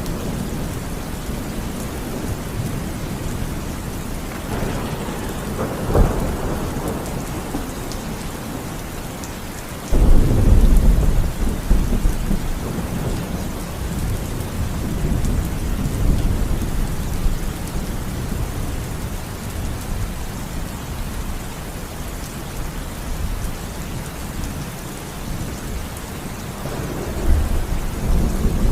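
Steady rain falling through a thunderstorm. A roll of thunder builds about five seconds in and ends in a sharp crack. About ten seconds in a sudden, loud thunderclap rumbles on for several seconds, and another roll of thunder comes near the end.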